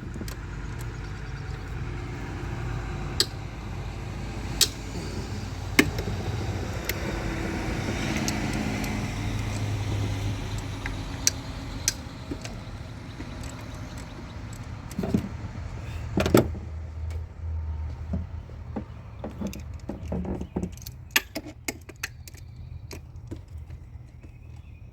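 Hand tools and metal parts clicking and knocking under the hood of the truck, with a steady low hum underneath.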